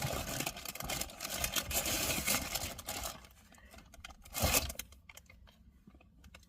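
Rummaging and handling of belongings: rustling and a run of small clicks for about three seconds, then fainter clicks and a single knock about four and a half seconds in.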